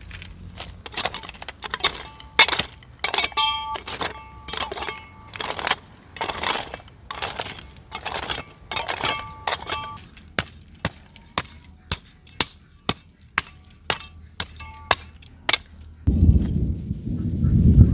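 A long series of sharp knocks and cracks. In the first half many carry a short ringing tone; later they come as evenly spaced sharp hits, about one and a half a second. Near the end a louder low rumbling noise takes over.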